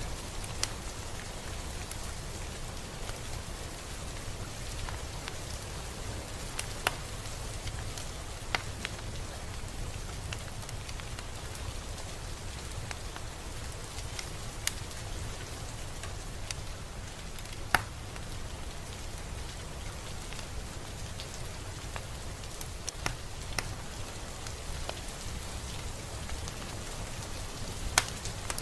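Steady rain falling, an even hiss with scattered individual drops clicking sharply onto a surface, a few louder ones about eighteen seconds in and near the end.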